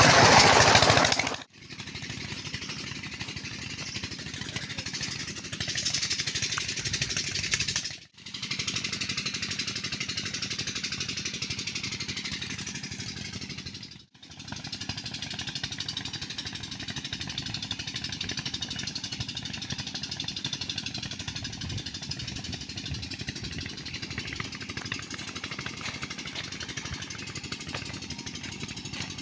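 Peter diesel engine driving a tube well pump, running with a rapid, steady knocking beat. The sound is loudest for the first second or so and breaks off abruptly three times, like cuts between clips.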